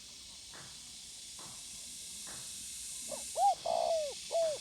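Spotted dove cooing: a short phrase of three or four low, arched coos near the end, over a steady high hiss.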